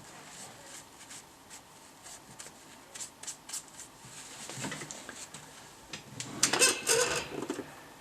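Light clicks and small rattles from small hard objects being handled on a workbench, with a louder burst of clattering about six and a half seconds in.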